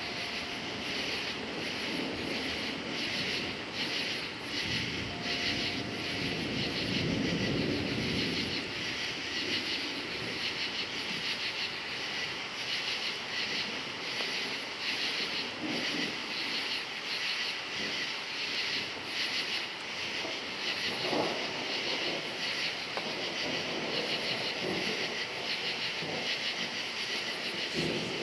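Crickets chirping steadily, about two chirps a second, over the low rumble of distant thunder, which swells about seven seconds in.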